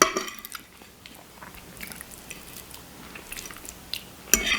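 Close-miked chewing of soft food, shepherd's pie with mashed potatoes, with small wet mouth clicks scattered throughout and a louder click near the end.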